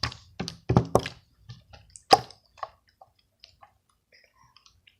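Jiggly glue-and-water slime being pressed and squished by hand, making wet squelching pops that sound like water. Several loud pops come in the first couple of seconds, then fainter scattered crackles.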